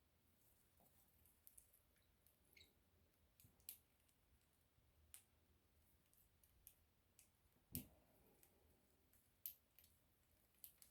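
Faint, irregular small clicks from pet parrotlets handled at close range, with one louder knock just under eight seconds in.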